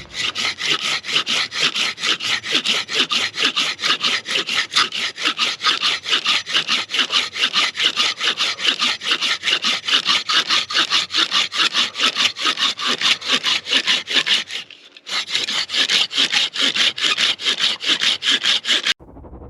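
Silky Gomboy folding pruning saw cutting through a fatwood pine knot in fast, even strokes at about four a second, with a brief pause about three quarters of the way through and a stop just before the end.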